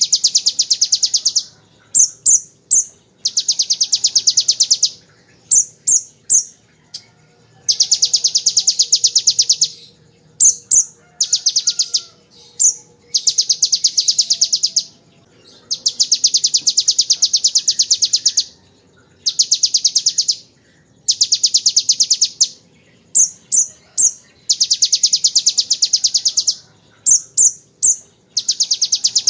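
Olive-backed sunbird (kolibri ninja) singing. It repeats long, very rapid high trills of about one to three seconds each, its mimicry of the bar-winged prinia's machine-gun 'ngebren' burst. Between the trills come quick groups of two or three sharp high chips.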